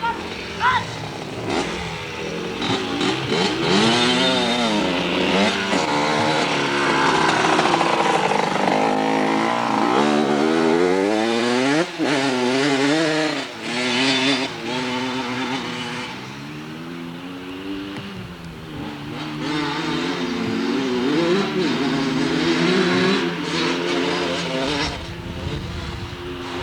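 Dirt bike engine being ridden, its pitch rising and falling over and over as the throttle opens and closes.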